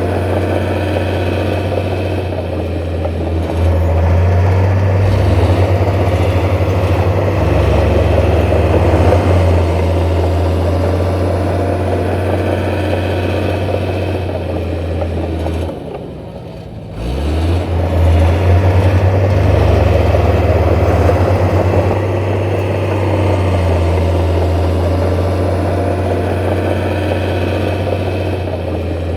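Heavy diesel engine of earth-moving machinery running steadily with a deep, low drone. It dips briefly about halfway through, then picks up again.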